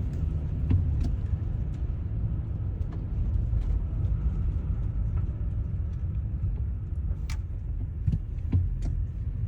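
Steady low road rumble of a car driving on a winter highway, tyre and engine noise heard from inside, with a few faint clicks.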